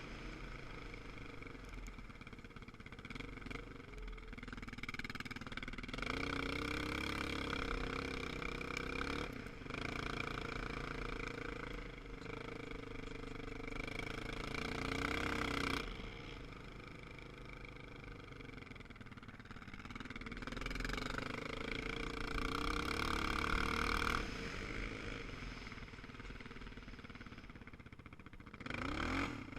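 Motorcycle engine running, its pitch and loudness swelling and dropping several times as the throttle opens and closes.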